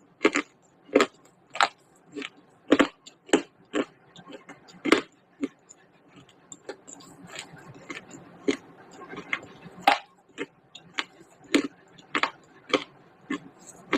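Pieces of baked clay pot being bitten and chewed: sharp, irregular crunches about two a second, with fainter crackling between them in the second half.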